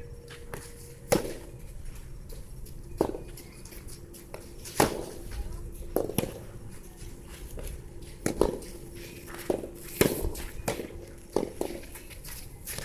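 Soft tennis balls struck back and forth with rackets in a rally: sharp pops every second or two, some in quick pairs, with wind rumbling on the microphone.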